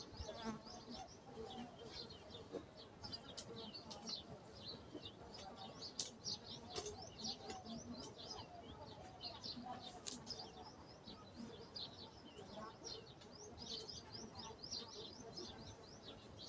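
Small birds chirping busily and faintly, a rapid scatter of short high chirps. Two sharp clicks stand out, about six and ten seconds in.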